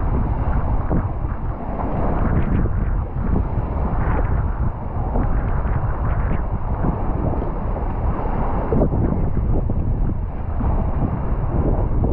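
Wind buffeting the microphone: a loud, gusty rumble that keeps rising and falling.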